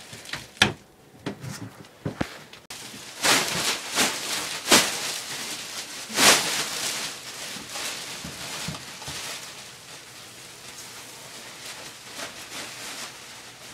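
Old flooring being pried and torn up: a few sharp knocks, then several rasping scrapes and tears, the loudest about six seconds in, fading to a softer rustle.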